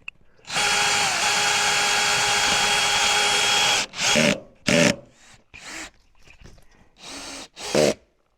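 A power drill running steadily for about three seconds, then triggered in four short bursts.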